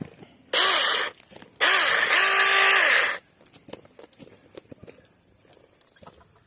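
Cordless battery mini chainsaw run in two short trigger pulls, a brief one and then a longer one, the motor whining up in pitch and winding back down each time.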